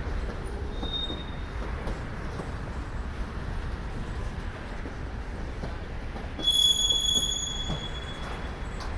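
Freight train cars rolling past with a steady low rumble. A brief faint squeal comes about a second in, and a loud, high-pitched wheel squeal lasts about a second and a half from around six and a half seconds in.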